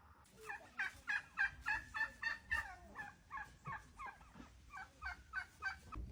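A bird calling in a rapid run of short repeated notes, about three a second, loudest in the first half and growing fainter toward the end.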